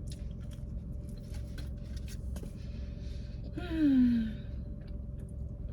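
A person's sigh: a voiced, breathy sound falling in pitch for about a second, about halfway through, over a steady low hum.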